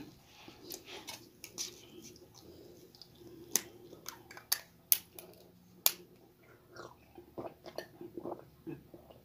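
Close-up chewing noises from someone eating, with four sharp clicks midway as the cap of a small bottle is twisted open.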